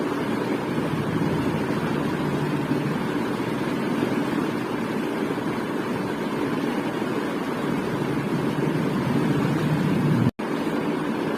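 Ceiling fan running steadily with a constant whirring rush of air, cut by a momentary silent gap about ten seconds in.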